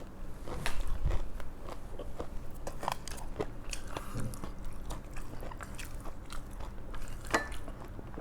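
A person biting into and chewing crispy fried chicken: a run of short, sharp crunches and mouth clicks.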